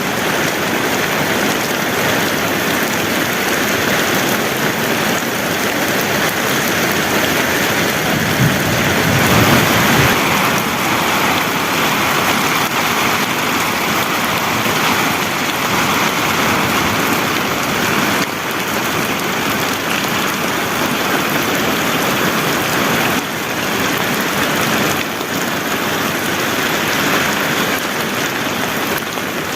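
Heavy rain pouring steadily, with a brief louder low surge about nine seconds in.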